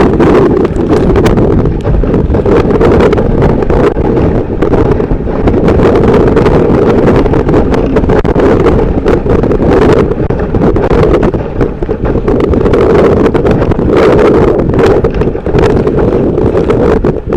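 Strong wind buffeting the microphone aboard a sailboat in heavy sea: a loud, continuous, gusty rumble that swells and dips without a break.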